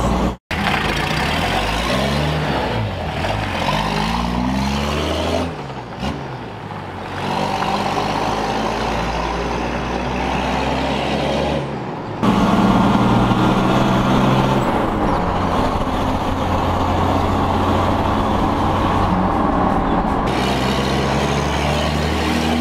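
Turbo-diesel 60 Series Land Cruiser engine under way with its electronic exhaust cutout open, dumping the exhaust ahead of the muffler and running loud and open. The engine pitch climbs and falls several times as it accelerates and changes gear, with abrupt breaks where the sound is cut.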